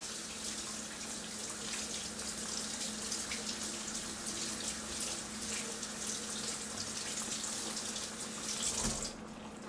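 Water running steadily from a kitchen tap, shut off about nine seconds in, over a faint steady hum.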